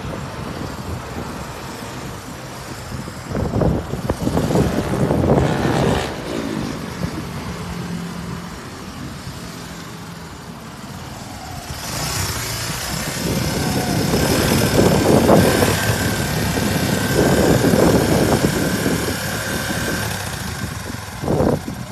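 Kawasaki 250TR's air-cooled single-cylinder four-stroke engine idling and being revved: a short run of revs about four seconds in, a longer spell of revving from about twelve to twenty seconds in, and one quick blip near the end.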